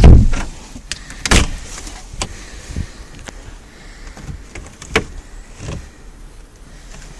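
A back door being opened and handled: a heavy thump at the start, a sharp knock just over a second in, then scattered lighter clicks and knocks.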